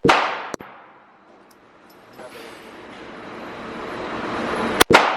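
Two pistol shots from a Glock 17 Gen4 9mm, almost five seconds apart, each a sharp crack with a short ringing tail, with a rising hiss between them.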